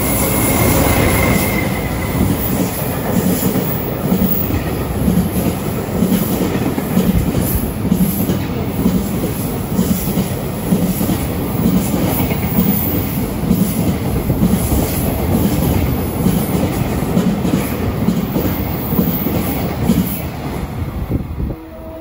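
Freight train wagons rolling past close by, the wheels beating out a steady clickety-clack over the rail joints, with a brief high wheel squeal in the first second or two. The noise drops off suddenly near the end.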